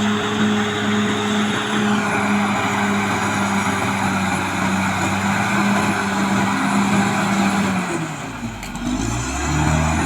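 Caterpillar D6R XL bulldozer's diesel engine running steadily under load; about eight seconds in its note dips and then climbs back up as the load changes.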